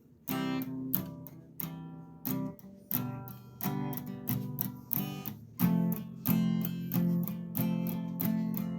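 Acoustic guitar strummed in a steady rhythm of chords, starting just after a brief pause and growing stronger about halfway through.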